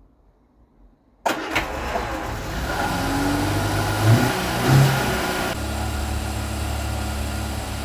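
A 1975 Vauxhall Viva HC's four-cylinder engine starts about a second in, is blipped twice and then settles into a steady idle with a burble from the rear silencer. The exhaust joints have just been resealed to cure a blow, and the engine sounds healthy.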